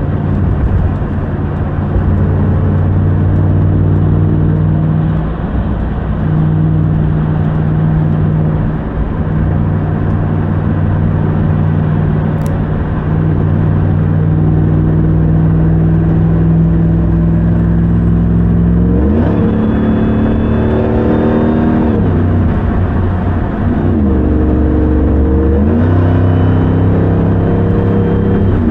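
2021 RAM 1500 TRX's supercharged 6.2-litre Hemi V8 running at a steady drone while cruising, then accelerating about two-thirds of the way in, its pitch climbing and dropping back at each upshift, and once more near the end.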